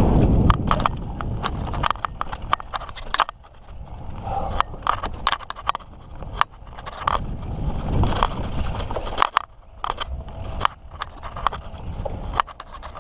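Mountain bike rolling over a bumpy dirt trail, with dense, irregular clicking and rattling over the bumps and a low rumble that swells at the start and again about eight seconds in.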